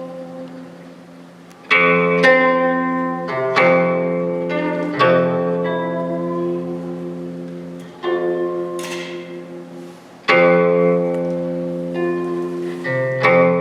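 Plucked string instrument playing slow phrases: sharp plucked notes, several in a rising run now and then, each left to ring and fade over lower notes that keep sounding.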